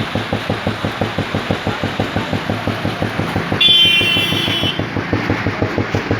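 Royal Enfield Bullet's single-cylinder four-stroke engine idling with an even thump, about seven beats a second. A horn sounds for about a second midway.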